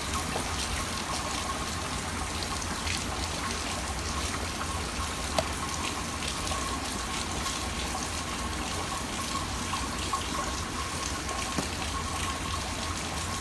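Heavy rain falling, with water running and splashing in a steady rush and scattered small drip ticks.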